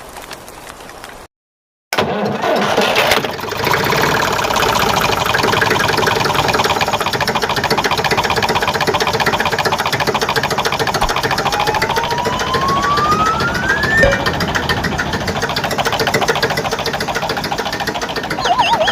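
Engine running steadily with a rapid, even chugging; it starts abruptly out of a moment of silence about two seconds in. A rising whistle-like tone sounds over it about halfway through.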